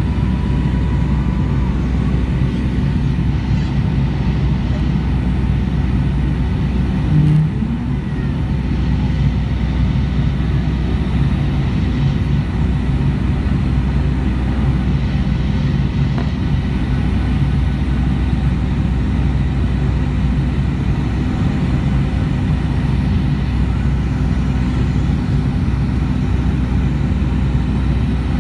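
Steady drone of a Boeing 757's jet engines and airflow heard inside the passenger cabin, with a brief louder bump about seven seconds in.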